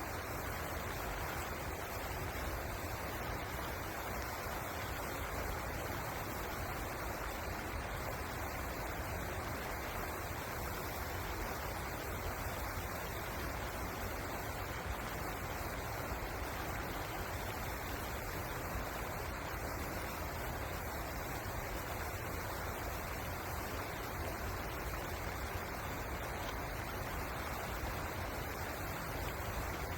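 River water rushing steadily over rapids, an even unbroken noise.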